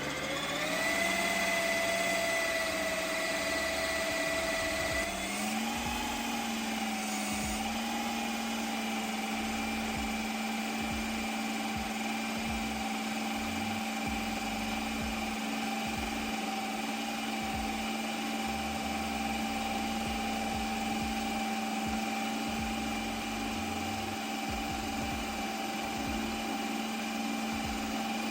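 Ninja Creami running its ice cream spin program on a frozen pint: a steady motor whine that winds up over the first second, steps up slightly in pitch about five seconds in, then holds steady.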